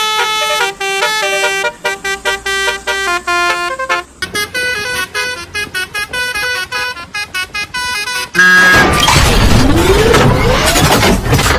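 Basuri 'telolet' musical bus horn playing a tune of short stepped notes. About eight seconds in, a much louder noisy sound with sweeping glides cuts in over it.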